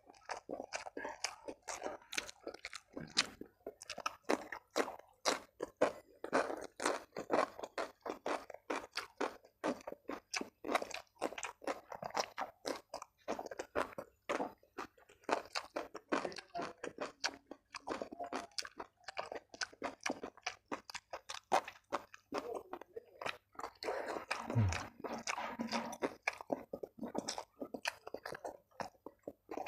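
Close-up chewing and crunching of a meal of shredded chicken, rice and raw vegetables eaten by hand: a dense, continuous run of quick crunchy bites and chews.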